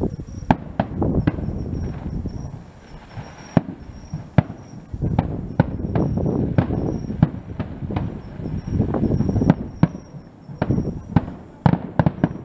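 Aerial firework shells bursting: a run of sharp bangs and crackles over a low rumble.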